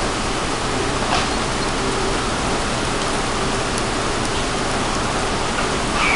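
Model train running on a layout: a steady rushing noise of wheels on the track and the locomotive motor, with a faint on-and-off hum and a couple of light clicks.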